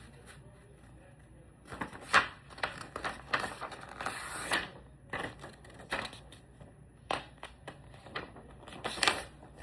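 A sheet of paper being folded in half and creased: irregular crinkles, rustles and sharp taps, loudest about two seconds in and again near the end.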